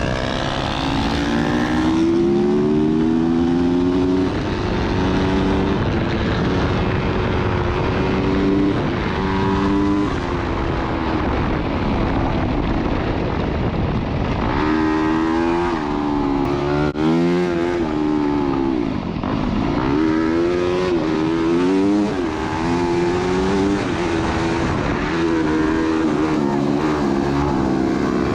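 Dirt bike engine riding hard, its revs climbing and dropping over and over as the rider accelerates and shifts gears, with a stretch of rapid up-and-down revving about halfway through.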